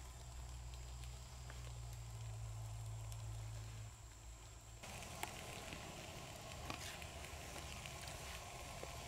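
Faint campfire crackling with a few sharp pops. About five seconds in, the sound changes abruptly to a fuller, even hiss with scattered crackles.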